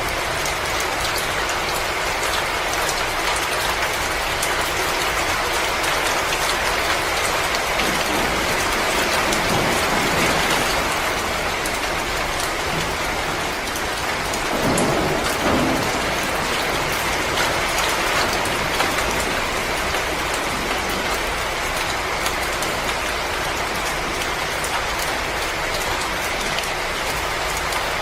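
Wood fire in a fireplace crackling: a dense, steady hiss sprinkled with many small pops, swelling briefly about halfway through.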